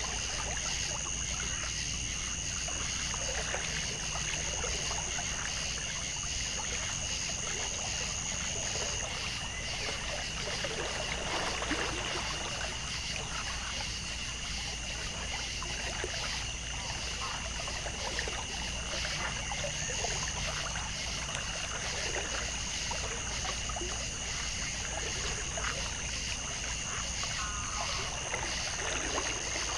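Water trickling and flowing under a steady chorus of insects holding two constant high-pitched tones. The higher tone drops out about a third of the way in and comes back near the end.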